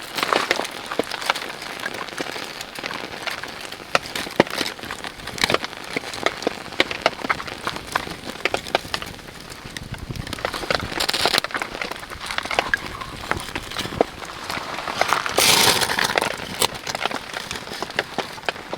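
Steady rain falling, with many sharp taps of drops landing close by. A louder rush of noise comes briefly about fifteen seconds in.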